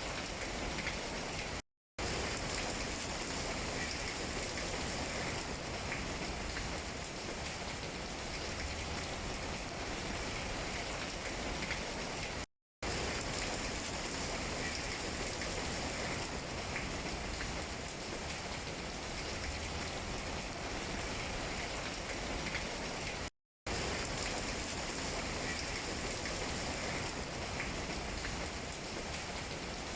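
Steady rain falling on tree leaves, an even patter with scattered drop ticks. The sound cuts out to silence for a split second three times, about eleven seconds apart.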